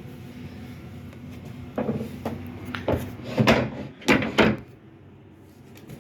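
A run of about five knocks and thumps, the loudest near the middle, over a low steady hum.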